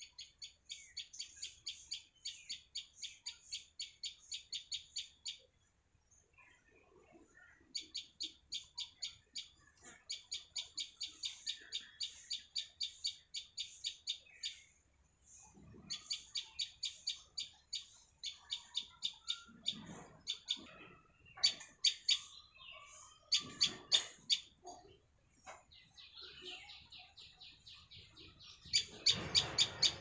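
Small bird chirping in rapid runs of about four high chirps a second, in bouts broken by short pauses, with louder chirps in the last few seconds.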